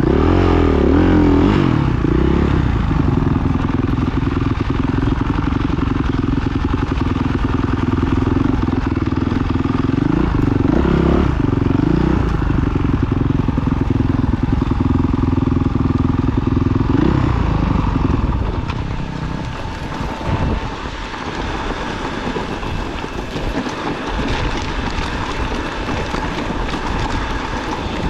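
Off-road motorcycle engine running steadily, its pitch rising and falling a little. About eighteen seconds in it drops back and runs quieter and less evenly.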